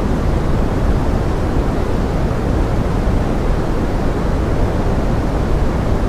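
Steady pink noise blended with forest rain: an even, unbroken hiss weighted toward the low end, with no separate drops or other events.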